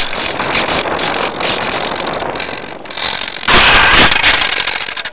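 RC plane's onboard camera hearing a landing with the electric motor cut: a noisy rush with rattling from the airframe, a louder burst of scraping and knocking about three and a half seconds in, then the noise drops off sharply at the end. The landing is rough enough to break off part of the landing gear.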